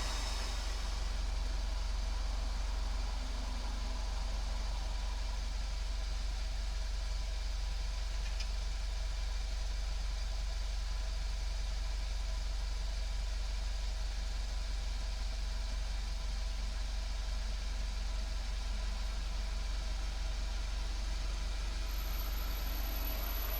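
Volkswagen Golf 7 GTI's turbocharged 2.0-litre four-cylinder idling steadily, heard as a low, even exhaust rumble through a Cox aftermarket muffler.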